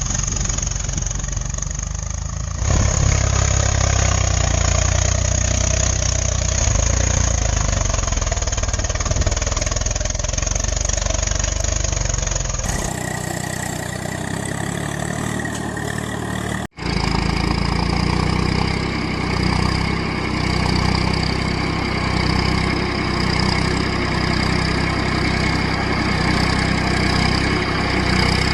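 An engine running steadily at idle-like speed, its sound changing abruptly about 3 and 13 seconds in and cutting out for an instant near 17 seconds, as at edits between clips.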